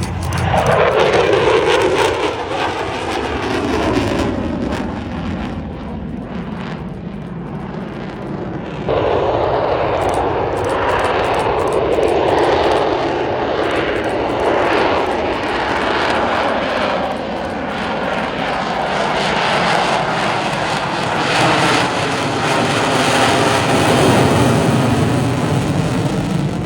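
AV-8B Harrier II's jet engine roaring loudly, with a falling sweep in pitch at the start. About nine seconds in the roar jumps suddenly louder and stays heavy, with slow shifting sweeps, before easing off at the end.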